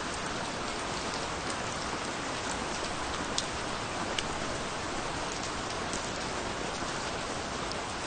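Steady rain falling, an even hiss with scattered sharper drip ticks, two of them standing out about three and four seconds in.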